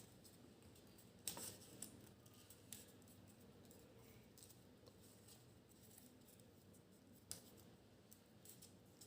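Faint crackles and rustling of origami paper being folded and creased by hand, with a few short, sharp crackles, about a second in and again near seven seconds.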